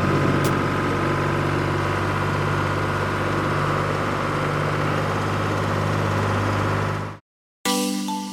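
A heavy vehicle's engine runs steadily at idle, a dubbed sound effect. It fades out about seven seconds in, and after a brief silence music begins near the end.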